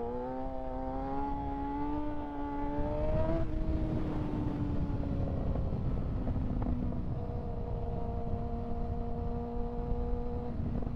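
Kawasaki ZX-6R 636's inline-four engine pulling in gear after a shift, its pitch climbing slowly for about three seconds, then easing off to a steady cruising note. Wind noise rushes underneath throughout.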